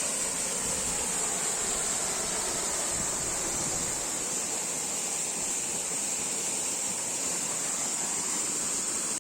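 Waterfall water rushing in a steady, even roar of noise with a bright high-pitched hiss running through it.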